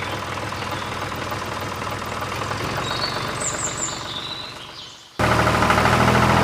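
Outdoor background noise with a few birds chirping in the middle. About five seconds in, a louder steady engine-like running sound cuts in abruptly.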